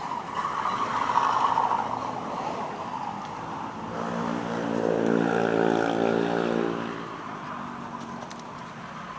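Road traffic passing: one vehicle's tyre and engine noise swells and fades about a second in, then a second engine approaches and passes from about four to seven seconds in, its pitch dropping slightly as it goes by.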